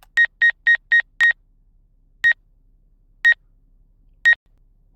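Drone controller's obstacle-warning beeps, short and high: about four a second for the first second or so, then slowing to one a second as the drone is held back near the opening.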